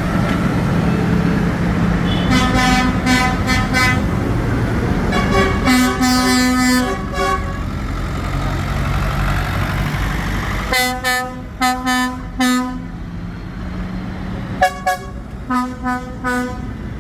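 Tractor horns tooting in four groups of short blasts over the low, steady running of tractor engines.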